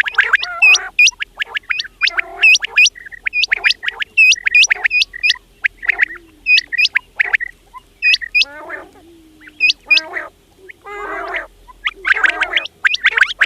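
Quails calling over and over: quick runs of short, sharp, high notes overlapping with lower, rougher chattering notes.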